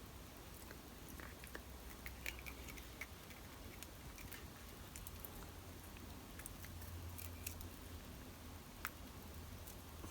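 A pet chewing and gnawing on a hard plastic toy: faint, irregular clicks and crunches.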